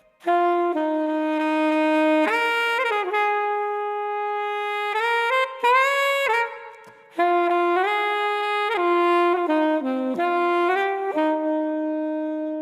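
Saxophone playing a slow melody of long held notes, with a short break about halfway through.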